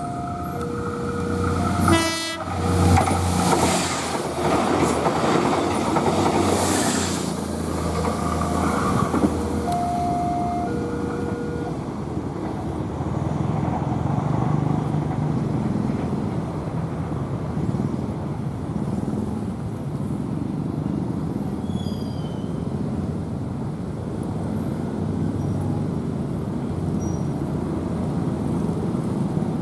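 A train passing a railway level crossing: a short horn blast about two seconds in, then the rush of the locomotive and carriages rolling by on the rails for the rest of the time. The crossing's warning signal sounds its alternating two-tone chime until about twelve seconds in.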